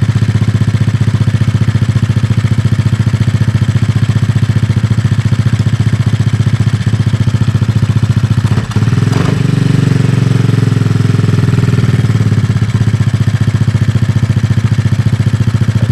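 Kayo pit bike's small single-cylinder four-stroke engine idling steadily on its freshly overhauled and adjusted carburettor. About nine seconds in the revs rise briefly, then settle back to idle a few seconds later.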